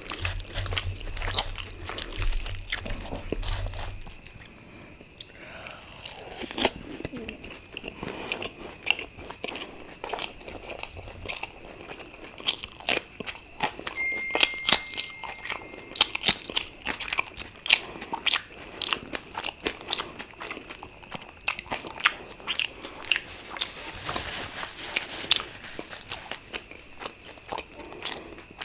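Close-miked chewing and biting of luchi (puffed deep-fried bread) with curry: irregular crisp crunches and wet mouth clicks.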